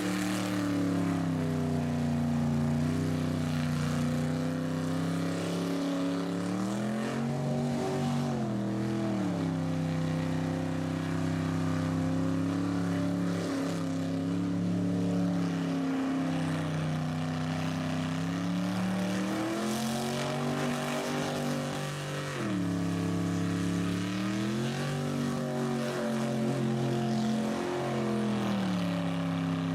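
A car engine running continuously, its pitch rising and falling several times as it is revved up and eased back.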